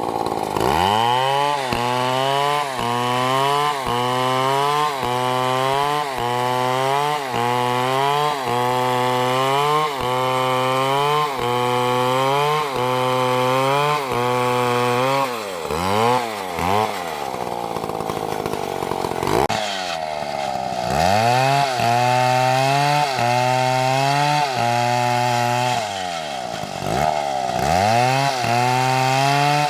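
Large two-stroke Stihl chainsaw running at full throttle in a cut through a big tree. Its engine note sags and recovers about every two-thirds of a second under load. The revs fall off and climb back a few times, around the middle and near the end.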